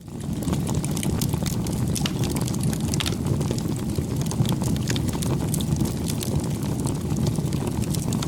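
Campfire burning: a steady low rush of flames with frequent small, sharp crackles and pops from the burning wood.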